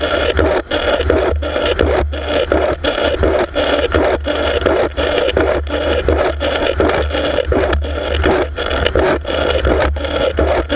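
Freight train cars rolling directly over the camera: steel wheels on the rails with a steady low rumble and a dense, clattering noise, broken by sharp knocks a few times a second.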